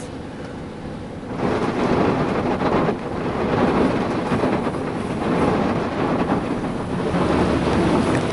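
Ryko Softgloss Maxx 5 car wash spraying its freshwater (spot-free) rinse water onto a vehicle, heard from inside the cabin as a steady hiss and patter of water on the roof and body. The spray grows suddenly louder about a second and a half in.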